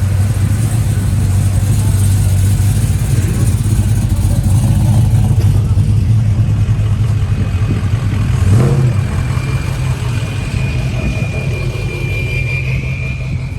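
A car engine running with a steady deep rumble, briefly revved about eight and a half seconds in.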